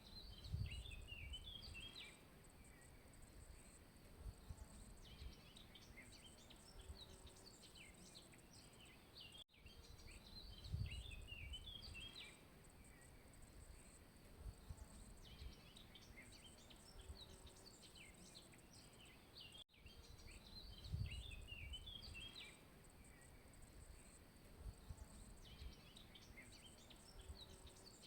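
Faint birdsong: a small bird singing short, quick twittering phrases over and over, over a steady high hiss. There are a few brief low rumbles, one near the start of each of the three stretches.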